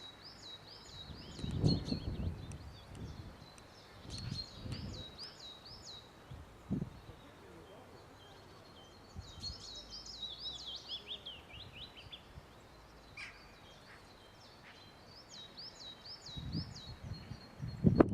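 A songbird singing short phrases of quick repeated high notes every few seconds, one phrase running down in pitch about ten seconds in. Low rumbling bumps on the microphone, loudest about two seconds in and again near the end.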